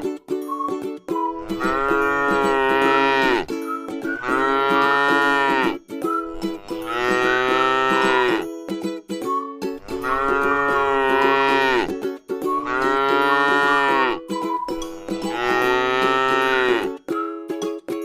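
A cow mooing over and over: about seven long moos in a row, each lasting around two seconds, with short pauses between.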